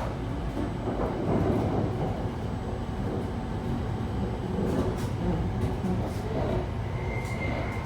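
Running sound inside an E7 series Shinkansen car with Mitsubishi IGBT VVVF drive: a steady rumble of wheels and running gear, with a steady high tone coming in near the end.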